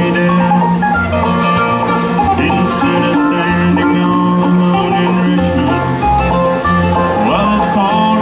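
Bluegrass music played live on acoustic instruments, with banjo and guitar picking over low notes that change about once a second.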